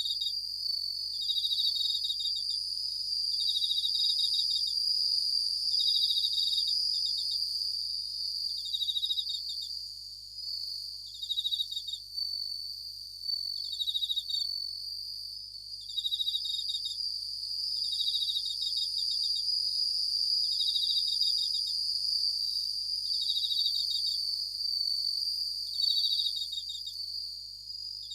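Japanese bell crickets (suzumushi) singing: a clear, high, bell-like trill of rapid pulses about a second long, repeated roughly every two seconds, over a steady high-pitched insect hum.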